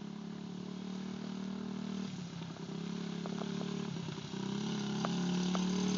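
Small dirt bike engine running steadily and growing gradually louder, with brief breaks in its note about two and four seconds in.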